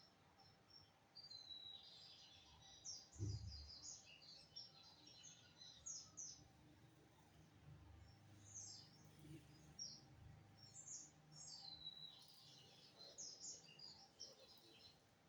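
Lined seedeater (bigodinho) singing: faint, fast high twittering phrases, repeated several times. A dull low bump sounds about three seconds in.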